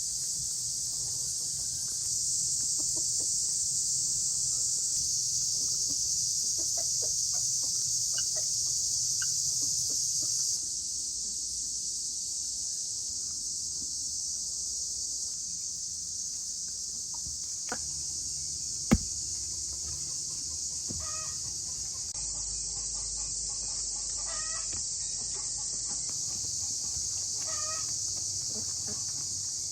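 A steady high-pitched chorus of insects runs throughout. In the last third a chicken clucks in short, repeated calls, and a single sharp knock sounds about 19 seconds in.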